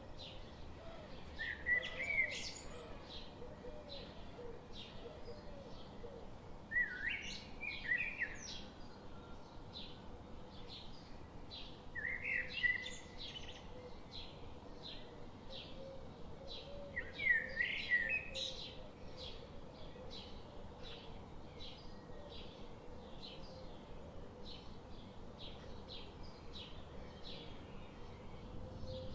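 Wild birds calling outdoors: a songbird sings a short phrase four times, about every five seconds, over a steady run of short high chirps at about two a second.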